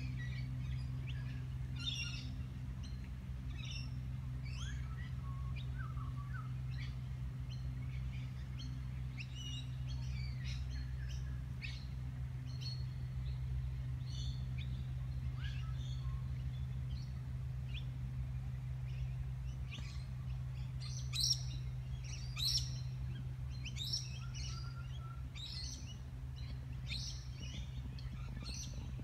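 Several birds chirping and calling in short high notes, busier and louder in the second half, with two louder chirps a little past the middle. A steady low hum runs underneath.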